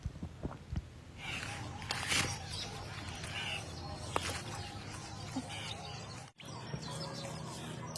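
Birds chirping now and then over a steady low hum and background noise.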